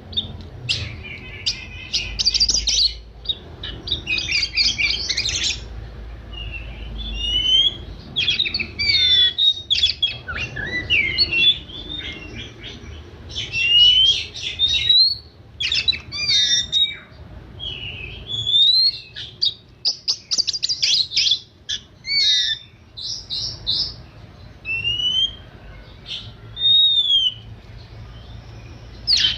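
Oriental magpie-robin (kacer) singing a varied song of clear whistled notes, slurred up-and-down glides and fast trills, in phrases broken by short pauses.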